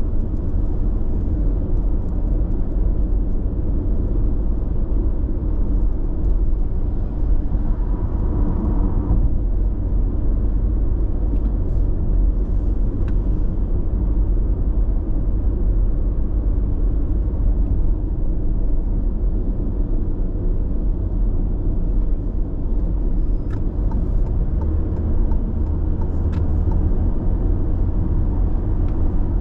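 Road noise inside a car cruising at steady speed on an expressway: an even low rumble of tyres and engine, with a brief higher hiss about eight seconds in.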